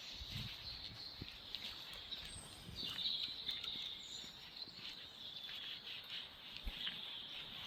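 Small birds chirping and twittering in a steady chorus of short calls, busiest about three seconds in.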